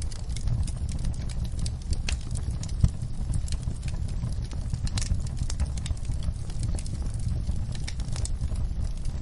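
Wood fire crackling in a fireplace: a steady low rumble of burning with irregular sharp pops and snaps, one louder pop about three seconds in.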